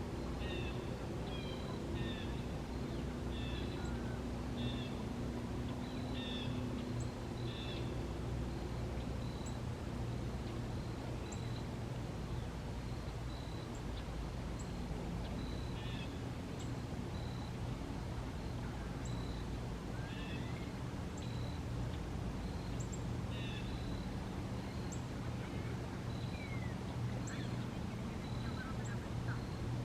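Wild birds calling: a short high note repeated about once a second, with bursts of chirping notes now and then, over a steady low hum.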